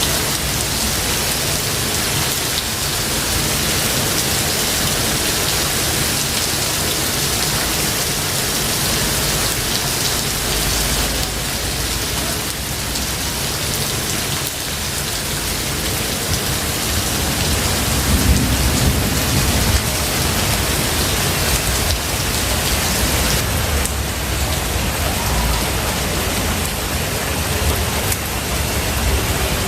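Steady heavy rain falling, with low rumbles of thunder rolling in past the middle and again near the end.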